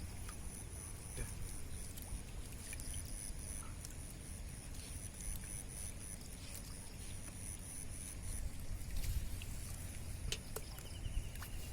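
Outdoor ambience: a steady low rumble with a thin, high-pitched steady drone that stops about eight and a half seconds in, and a few faint clicks.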